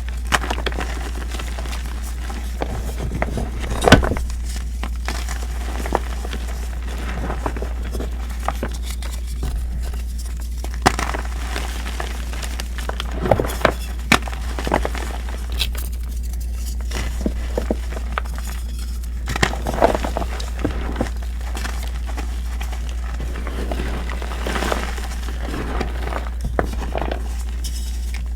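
Reformed gym chalk blocks being crushed and crumbled by hand: irregular crunchy crackles and gritty snaps, with a sharp snap about four seconds in. A steady low hum lies underneath.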